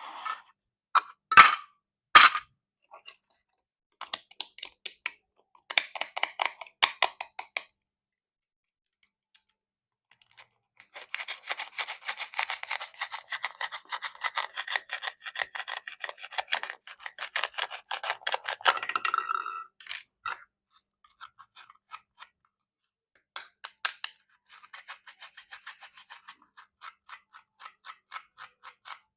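Plastic toy fruit being cut with a plastic knife: runs of rapid clicking, scraping strokes, the longest lasting about eight seconds in the middle, with a couple of sharp snaps near the start.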